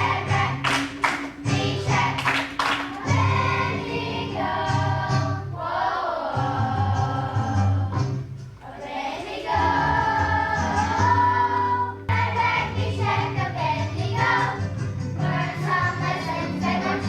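Children's choir singing a song over instrumental accompaniment with a repeating bass line, with sharp percussive hits in the first few seconds.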